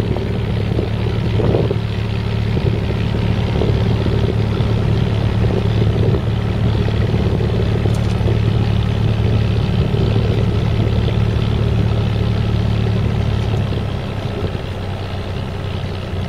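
Engine on a sand-carrying cargo boat running steadily at constant speed with a low, even hum, a little quieter over the last couple of seconds.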